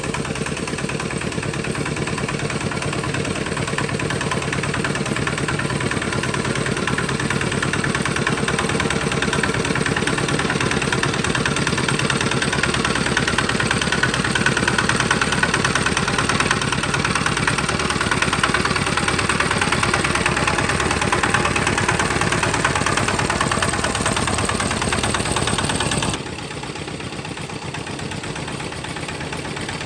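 Homemade tractor's engine running steadily, slowly growing louder, then dropping suddenly to a quieter run about 26 seconds in.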